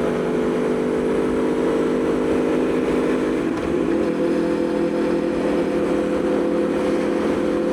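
Aprilia Tuono V4 motorcycle engine running at a steady cruise, with wind rushing past. About three and a half seconds in the engine note dips briefly, then settles at a slightly higher pitch.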